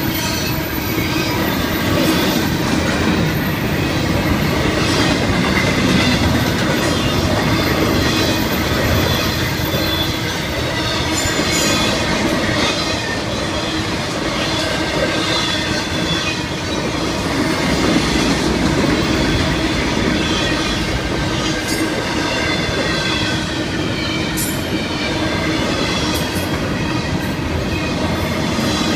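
Florida East Coast Railway intermodal freight cars (double-stack container well cars and trailer flatcars) rolling past at a grade crossing, steel wheels rumbling on the rails at an even loudness, with thin high wheel squeal over it.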